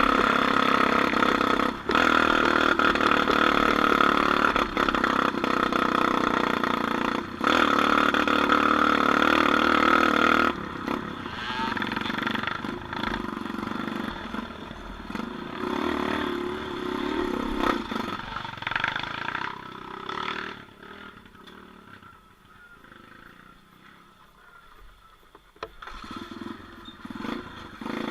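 Off-road vehicle engine running loud and steady, dipping briefly twice. About ten seconds in it turns quieter and uneven, falls low for a few seconds, then rises again near the end.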